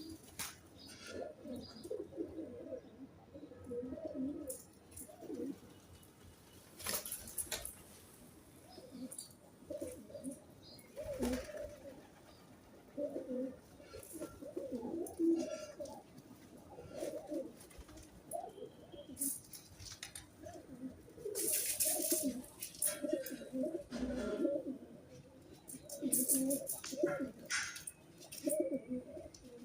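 Pigeons cooing repeatedly in low, throaty phrases, with a few brief sharp noises scattered among the coos.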